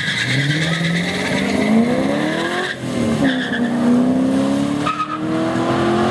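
Two cars, a Holden ute and a Holden Commodore, launching off a drag-strip start line at full throttle, with tyre squeal over the launch. Their engines climb steadily in pitch, dropping back at gear changes about three and five seconds in.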